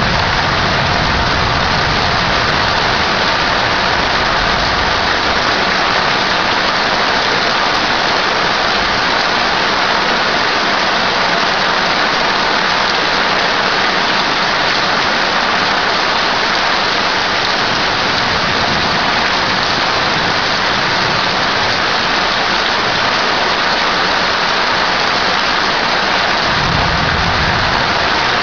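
Heavy thunderstorm downpour: a loud, steady hiss of rain pouring onto a flooded street and lawn, with a brief low rumble near the end.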